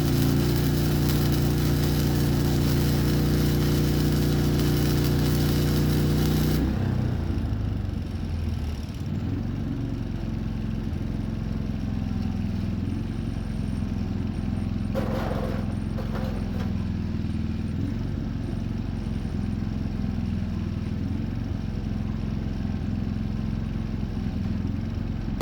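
Stick-welding arc crackling and hissing over a generator running steadily under load; about six and a half seconds in the arc cuts off suddenly and the generator keeps running with a steady hum.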